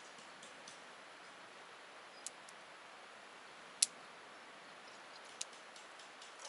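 Wood campfire crackling: a faint steady hiss with scattered small ticks and three sharp pops, the loudest a little over halfway through.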